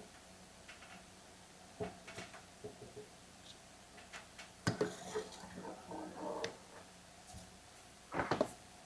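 Light clicks and knocks of hands handling a chainsaw's plastic housing and fuel line while working the line into place, with a louder knock about halfway through and another brief clatter near the end.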